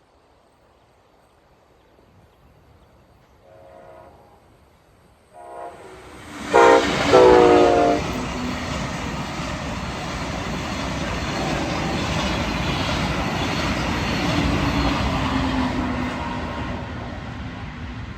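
A train sounding its multi-tone horn in several blasts that grow louder as it approaches, the last one loud, then passing close by with a steady rush of wheel and rail noise that swells and fades away.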